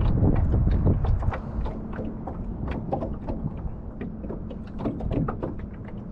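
Wind buffeting the microphone for about the first second, then a run of small clicks and knocks from gear being handled in a small boat.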